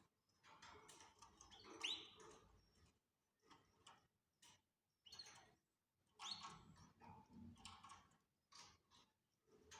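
Pet canaries giving faint, short chirps in irregular clusters, a few with quick upward sweeps; the loudest calls come about two seconds and six seconds in.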